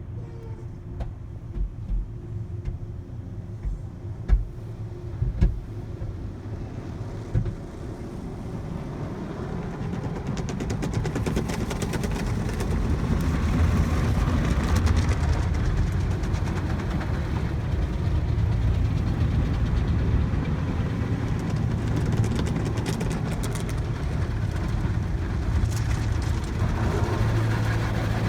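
Ryko Rocket conveyor car wash tunnel at work. A few dull thumps come over a low hum in the first seconds, then a steady rush of water spray and wash equipment builds up over several seconds and stays loud.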